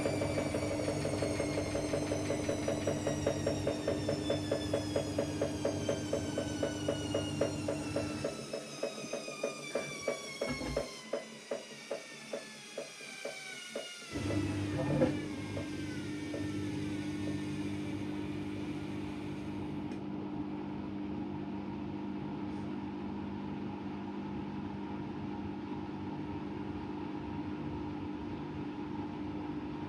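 AEG Lavamat Turbo washer-dryer coasting down: a whine falls steadily in pitch while the drum's rhythmic thumping slows and fades. About halfway through there is a sharp click, and then a steady hum runs on.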